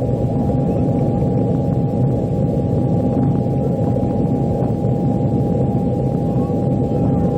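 Steady cabin noise of an Airbus A330-200 airliner in flight: an even rushing noise with a constant thin whine running through it.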